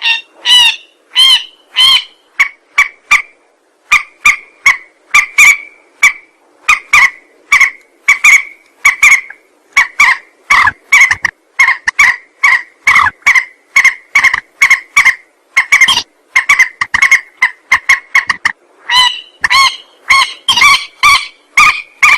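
Rail (burung mandar) lure call: short, loud, harsh notes repeated rapidly, about two a second, in a long unbroken series. The first few notes rise higher in pitch.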